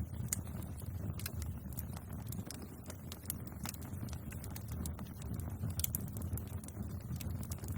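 Bonfire crackling: irregular sharp pops and snaps of burning wood over a steady low rumble.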